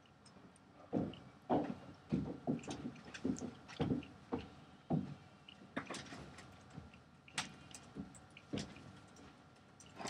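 Someone crunching and chewing a biscuit close to the microphone: a dense, irregular run of crunches in the first half, then a few sharper, sparser clicks.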